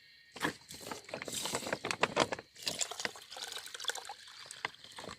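Water splashing and trickling, starting suddenly about half a second in and running on unevenly with many small crackly ticks.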